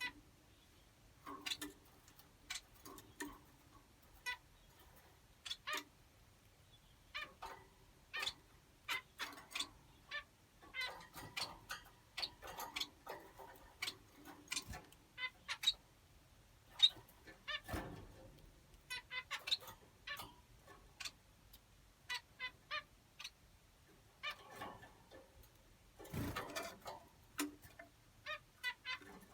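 Finches giving short, clicking chirps, some single and some in quick runs, at irregular intervals.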